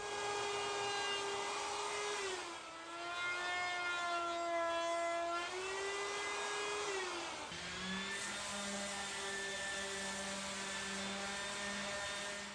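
Electric wood router running with a high, steady whine while cutting a round-over on the edges of an ash slab. Its pitch sags briefly about two seconds in and again about seven seconds in as the bit loads up in the wood, and a lower hum joins soon after the second dip.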